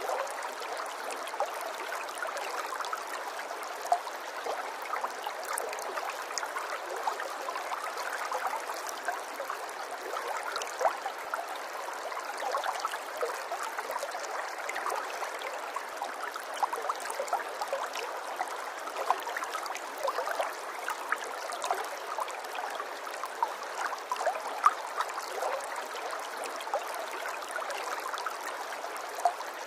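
Flowing water babbling steadily, with many small splashes and drips scattered through it and no low rumble.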